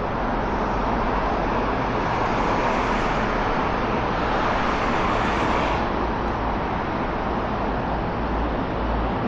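Road traffic on a busy city street, a steady noise of passing cars. One vehicle passes close by, swelling over a few seconds and falling away about six seconds in.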